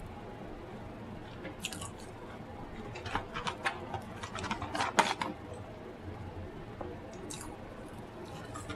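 A person chewing food close to the microphone: scattered wet mouth smacks and clicks in short clusters, the loudest about five seconds in.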